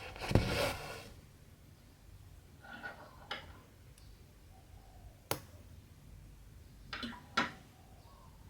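Cross-stitch handwork: embroidery thread drawn through the fabric with a swish about a second long at the start, soft rustling and a sharp click in the middle, and two short pulls of thread near the end.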